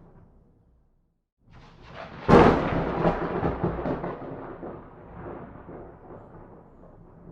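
Thunder. A low rumble dies away, then a rumble builds and breaks into a sharp crack a little over two seconds in. The crack rolls on and slowly fades.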